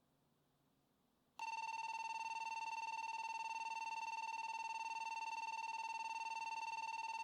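Shinkansen platform departure bell: after a second and a half of near silence an electric bell starts abruptly and rings continuously on one steady tone, signalling that the train is about to depart.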